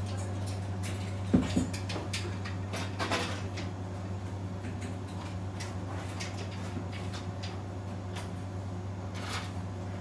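Scattered knocks and clatters, the loudest a single sharp knock about a second in, over a steady low hum.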